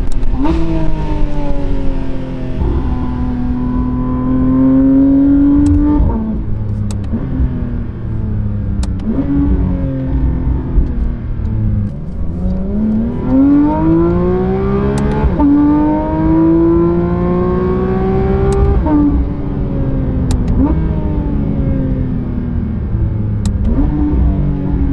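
Porsche 992 GT3 RS naturally aspirated flat-six breathing through a full titanium valved exhaust, driven hard through the gears. The engine note climbs, drops sharply at each gear change and climbs again, several times over, with occasional sharp clicks and a low rumble underneath.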